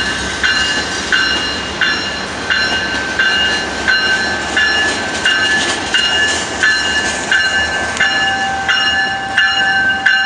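A CN freight train of boxcars and tank cars rolls past, its wheels rumbling on the rails, while a bell rings steadily about once every 0.7 seconds. Near the end a steady high tone joins in.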